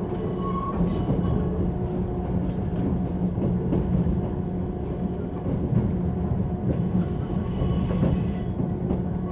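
JR 185-series electric train running, heard from inside the car: a steady low hum of rolling and running noise with a few sharp clicks from the wheels.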